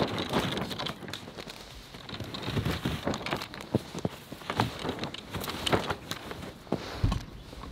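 A greenhouse door being worked open: a run of irregular knocks, scrapes and crackles.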